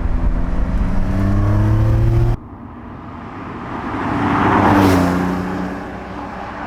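Porsche 911 Carrera T's twin-turbo flat-six accelerating, its pitch slowly climbing, cut off abruptly about two seconds in. Then the car passes by, growing louder to a peak near the five-second mark and fading away, its engine note dropping as it goes.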